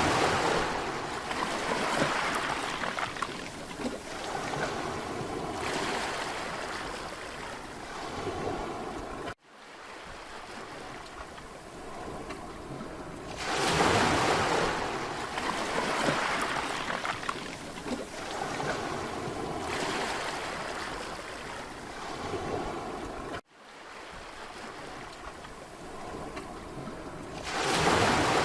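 Mediterranean sea waves breaking and washing onto a beach, swelling into loud surges every few seconds and then ebbing. The sound drops out abruptly for an instant twice, about a third and four-fifths of the way through.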